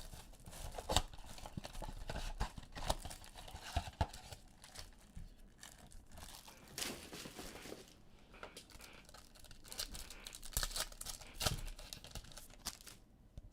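Plastic wrapping on football trading-card boxes and packs being torn and crinkled open by hand, with irregular rips and crackles that thin out near the end.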